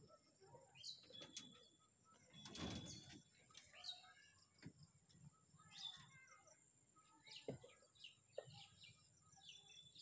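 Faint birds chirping, with short calls scattered through, over a steady thin high-pitched tone. There is a brief rustle about two and a half seconds in.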